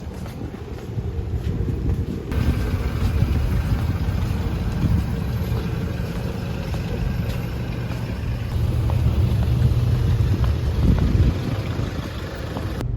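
Steady low engine rumble and road or water noise of a moving vehicle, with an abrupt change about two seconds in and another near the end.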